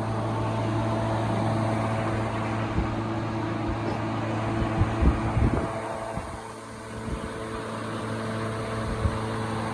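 A machine running steadily with a low hum, with a handful of short knocks around the middle.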